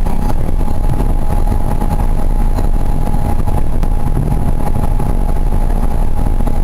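Port Liner rubber-tyred automated guideway train running, heard from inside the car: a steady heavy rumble with a constant high hum over it.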